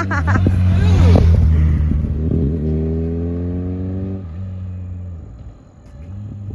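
Kawasaki Concourse 14 motorcycle's inline-four engine running and accelerating, its pitch rising steadily from about two and a half seconds in until it cuts off just after four seconds, then the engine sound fades away.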